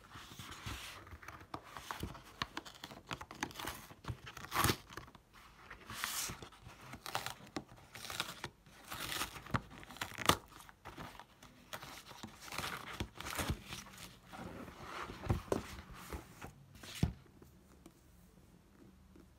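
Crinkly material being handled and torn: irregular rustling and crinkling with small sharp clicks. It stops about two seconds before the end.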